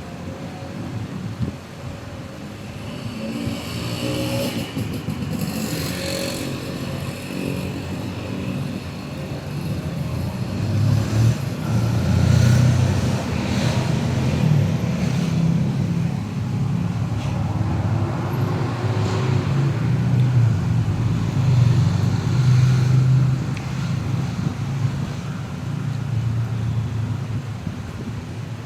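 Road traffic: motor vehicle engines passing, with a low engine rumble that grows louder partway through.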